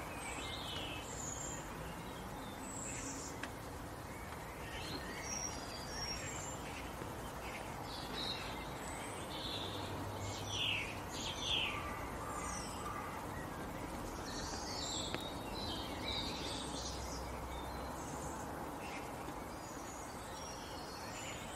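Birds chirping and calling in short, scattered notes, some sliding in pitch, over steady outdoor background noise.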